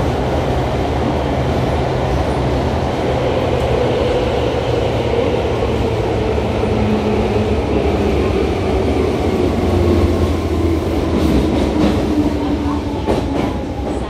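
Tobu 9000 series electric train running through a subway tunnel: a steady wheel-and-track rumble, with the traction motor whine sliding slowly down in pitch as the train slows, and a few clicks near the end.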